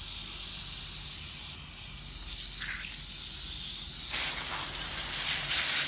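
A steady spraying hiss from liquid being sprayed onto engine parts during cleaning, which becomes much louder and fuller about four seconds in.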